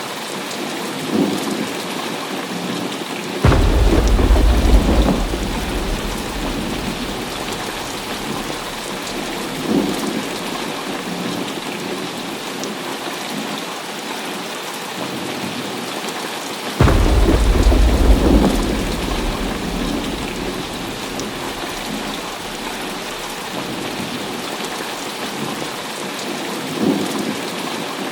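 Heavy rain falling steadily, with thunder. Two loud claps start suddenly about three and a half seconds in and again about seventeen seconds in, each rumbling on for two to three seconds, with a few fainter rumbles in between.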